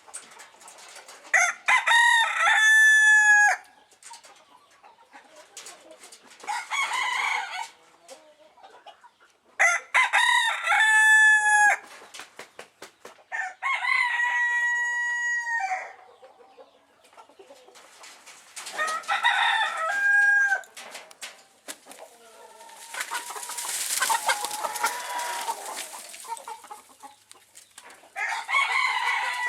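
Phoenix rooster crowing over and over, about six crows spaced a few seconds apart, each ending on a long held note. About two-thirds of the way through there is a longer rushing, hissing noise.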